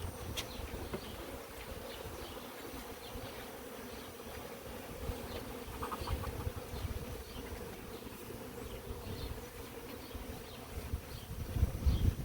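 Honeybees from an opened hive buzzing, a steady hum of many bees, with a low rumble near the end.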